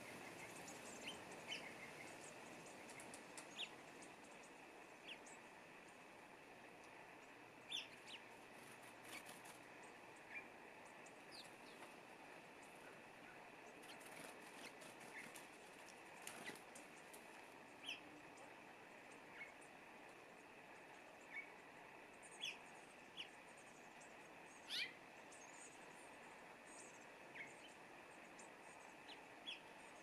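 Faint, scattered short chirps of small songbirds, a couple of dozen in all, over a quiet garden background.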